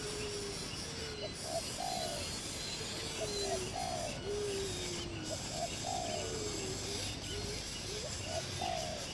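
A dove cooing in a repeated phrase about every two and a half seconds, four times: two short coos and a longer one, with a lower drawn-out coo in between, over a steady high hiss.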